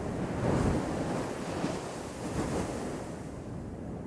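Big surf breaking in a broad rush, with wind noise on the microphone. It is loudest about half a second in and eases off toward the end.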